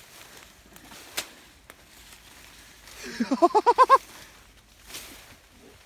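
A goat bleating once, a wavering, quavering call lasting about a second, a few seconds in. Before it come a couple of sharp clicks.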